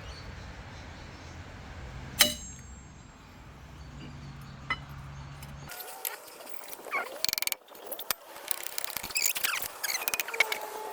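A single sharp metal clang that rings on briefly, about two seconds in, over a steady low hum, with a lighter click a little later. Just past halfway the hum stops suddenly, and scattered clicks and short chirps follow.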